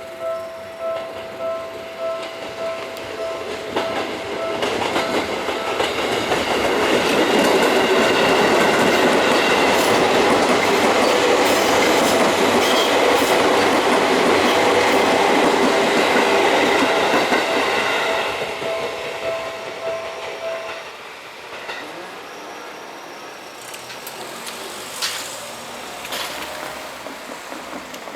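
Japanese level-crossing warning bell ringing in a steady repeating pulse while a six-car Seibu electric commuter train runs through the crossing. The train's noise swells up, holds for about ten seconds and fades, and the bell stops about three-quarters of the way through.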